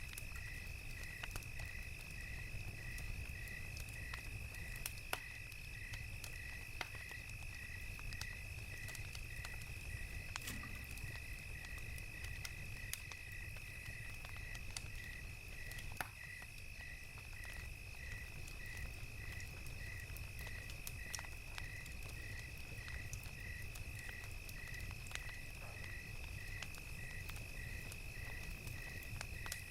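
Crackling campfire with scattered sharp pops over a low rumble, and crickets chirping in an even rhythm over a steady high insect drone.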